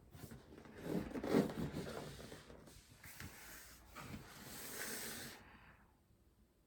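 Rustling and crinkling of motherboard packaging being handled, loudest about a second in, with a hissy crinkle that stops about five and a half seconds in.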